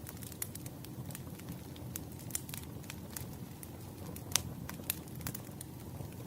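Firewood burning: a steady low rumble under frequent irregular crackles and pops, the sharpest pop about four seconds in.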